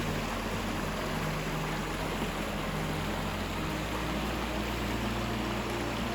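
Steady rushing of a tall plunge waterfall, an even wash of falling water, with low sustained notes underneath.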